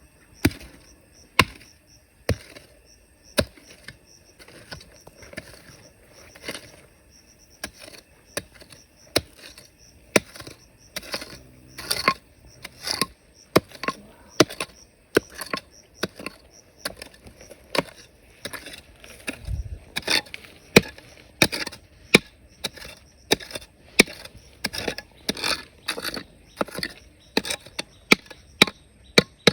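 A hand tool striking rock again and again, as when digging and breaking up rock for gold-bearing material. The strikes come about once a second at first and quicken to about two a second later, with one heavier, deeper thud about two-thirds of the way through.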